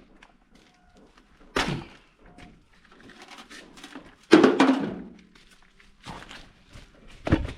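Three heavy thuds of ballast stones being dropped onto the ground, the loudest about four seconds in, trailing off over about a second.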